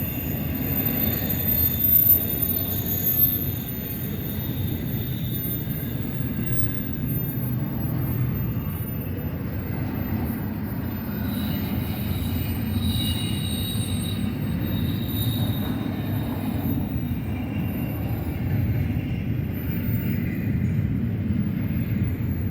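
Double-stack intermodal freight cars rolling past: a steady rumble of steel wheels on rail, with faint high wheel squeal at times and two short louder clanks about two and three seconds in.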